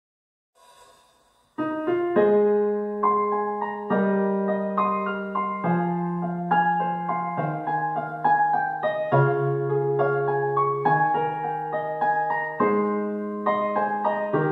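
Piano music begins about a second and a half in after near silence: a slow melody over sustained bass notes that change every second or two.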